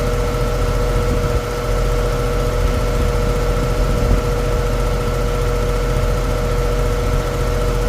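Goodman outdoor AC condenser unit running, its fan moving air with a steady hum and a low rush of air. The air coming off it is no warmer than the air going in, so the unit is not removing heat, and the compressor seems not to be running.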